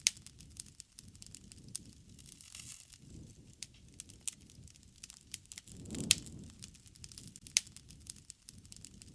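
Wood fire crackling: irregular sharp pops and snaps, the loudest right at the start, about six seconds in and near the end, over a soft low rush of flames that swells and fades.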